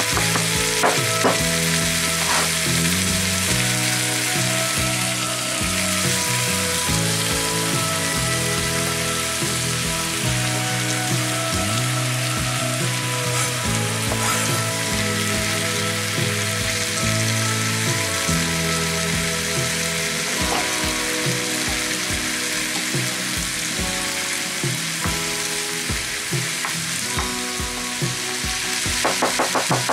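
Mixed vegetables sizzling steadily as they fry in a frying pan, with background music underneath.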